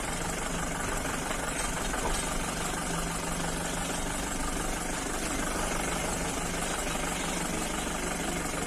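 Vehicle engine running steadily, with a constant low hum and rumble heard from inside the moving safari vehicle.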